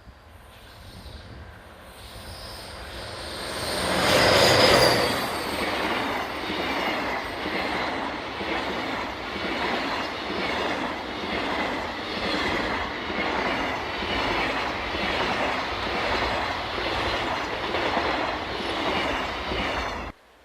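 Diesel-hauled freight train passing close by: the locomotives' engines build to a loud peak a few seconds in, then the freight wagons go by with a steady rhythmic clatter of wheels over rail joints, about one beat a second. The sound cuts off abruptly near the end.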